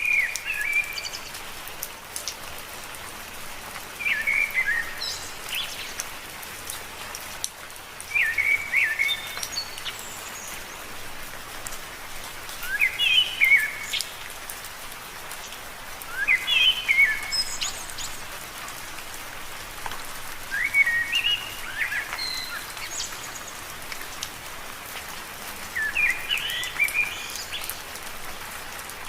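Steady rain falling on leaves, with a songbird repeating a short, chirpy phrase about every four seconds.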